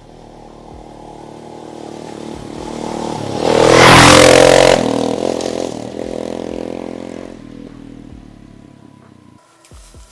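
Motorcycle riding past, its engine note growing louder as it approaches, loudest about four seconds in, then fading as it rides away.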